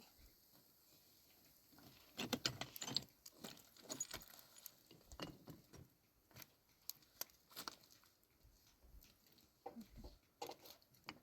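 Faint, irregular small clicks and rustles, thickest in a cluster a couple of seconds in and again near the end.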